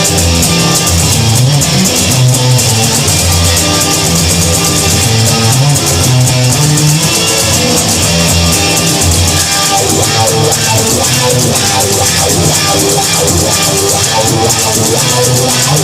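Instrumental rock music: electric guitar over bass guitar and a drum kit, with no singing.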